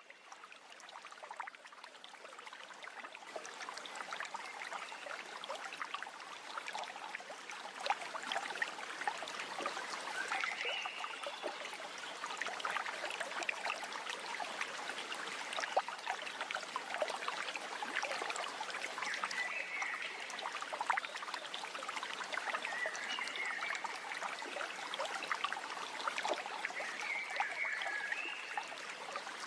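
Water trickling and running steadily in a small stream, a continuous crackly splashing.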